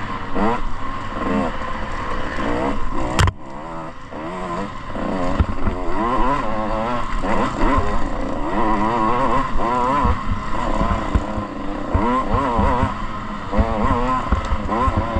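Motocross bike engine revving hard, its pitch climbing and falling again and again as the throttle is worked and gears change. A single sharp crack comes about three seconds in, and the engine drops off briefly before picking up again.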